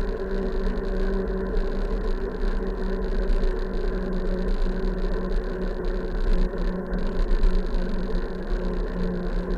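Wind and road noise on a moving bike's camera: a steady rush and low rumble, with an even hum underneath.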